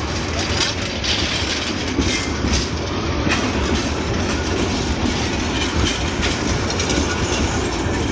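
Passenger train coaches rolling through a station at speed, steady rumble with the clickety-clack of wheels over rail joints.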